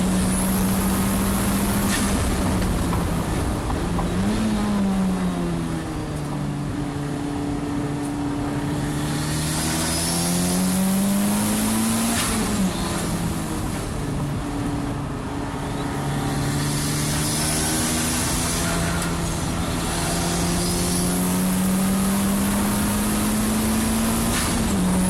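Honda K20C turbocharged four-cylinder in a race car, pulling hard through the gears. Its pitch climbs steadily and drops sharply at each gear change, about three times. A steady hiss of wet-track tyre spray and rain runs underneath.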